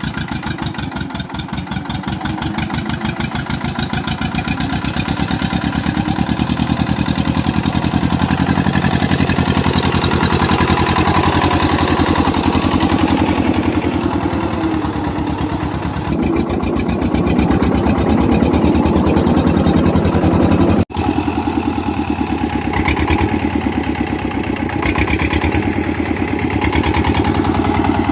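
Eicher 364 tractor's diesel engine running steadily under load with a fast, even firing beat, likely hauling a loaded trolley. The pitch creeps up a little over the first half, and the sound breaks off for an instant about three-quarters of the way through.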